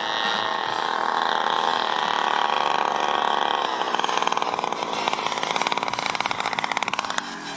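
A large radio-controlled P-47's Desert Aircraft DA-85 single-cylinder two-stroke gas engine, throttled back for landing. About halfway through its pitch drops to a low, pulsing idle where the separate firing strokes can be heard.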